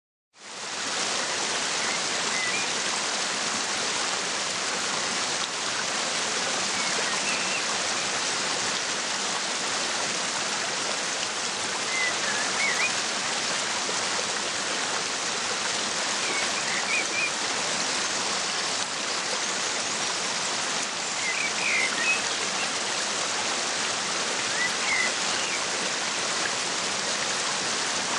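Waterfall rushing steadily, rising out of silence within the first second. Small birds chirp faintly every few seconds over the water.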